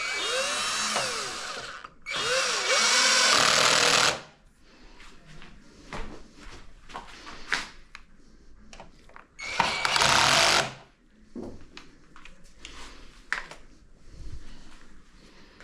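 Cordless power drill or electric screwdriver running in three short bursts, its whine gliding up and down in pitch, with quieter clicks and knocks of handling between.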